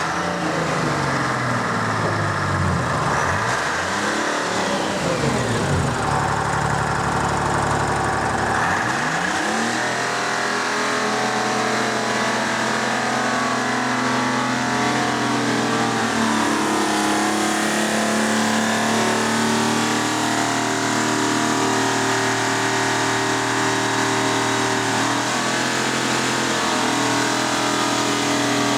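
Detroit Diesel 6V-53 two-stroke V6 diesel being revved: the pitch swoops down and up a few times, settles low, then climbs about nine seconds in and holds at high revs, shifting a little now and then.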